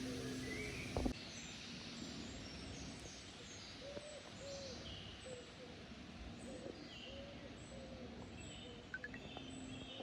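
Birds calling in woodland: a run of short, low arched notes and scattered higher chirps over steady outdoor background noise. A sharp click sounds about a second in, as a steady hum cuts out.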